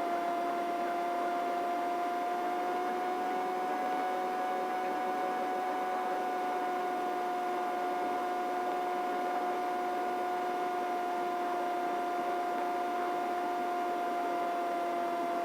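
Steady whine of a helicopter in flight, heard through the aircraft's intercom audio, with the low end cut off. The pitch rises slightly about two seconds in and then holds steady.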